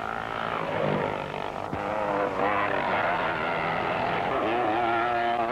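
Several scrambles motorcycle engines running hard, their pitch rising and falling as the riders go past. The sound is dull and thin, as on an old film soundtrack.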